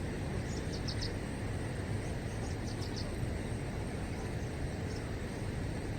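Steady outdoor background noise with a low rumble, and a few short, high bird chirps about a second in.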